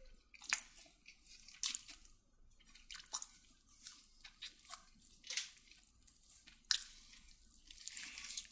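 Faint, scattered crunches and wet clicks of someone biting and chewing food, spaced about a second apart.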